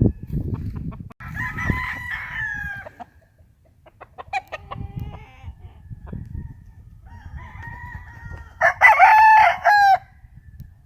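Gamefowl roosters crowing, three crows in turn, the loudest and closest near the end, over a low rumbling noise.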